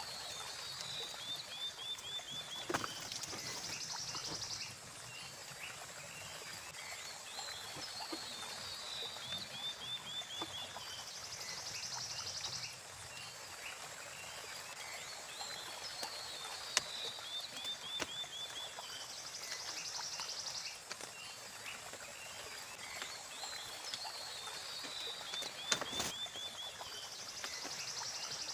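An animal calling over and over, about every eight seconds: a quick run of falling chirps, then a buzzy trill about a second and a half long. Behind it is a steady hiss, with a few sharp clicks.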